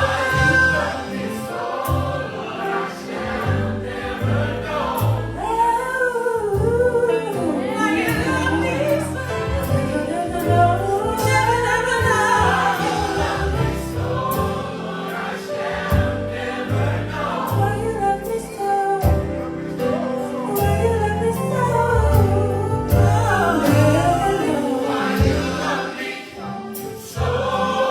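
Gospel choir singing with a bass-heavy band accompaniment.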